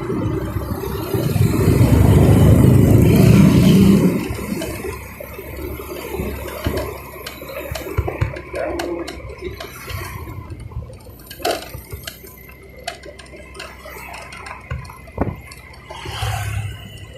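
Motorcycle running with loud low rumble, which drops away about four seconds in, followed by scattered light clicks and knocks.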